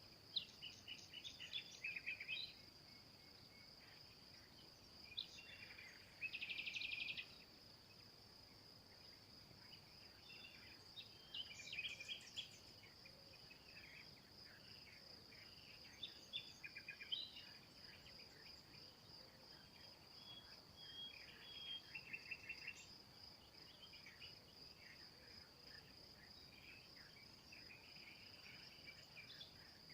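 Forest songbirds calling and singing in short scattered phrases, including a fast trill about six seconds in, over a steady high-pitched insect trill.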